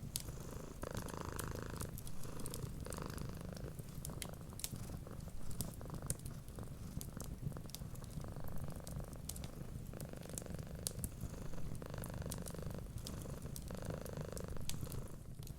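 A cat purring steadily, the purr swelling every couple of seconds with its breathing. Sharp, scattered crackles from a wood fire run through it.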